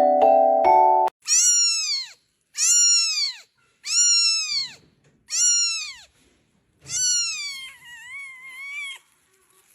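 A cat meowing five times in a row, each meow rising and then falling in pitch, the last one longer and wavering. A few piano-like music chords end about a second in, just before the first meow.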